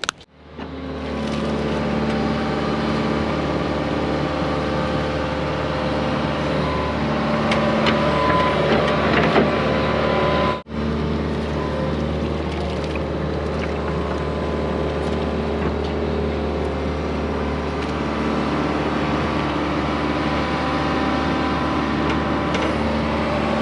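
John Deere 120 excavator's diesel engine running steadily under work, with a higher tone that wavers around the middle. The sound drops out for an instant about ten seconds in.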